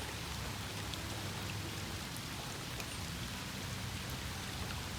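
Steady heavy rain falling, an even hiss with scattered single drop ticks.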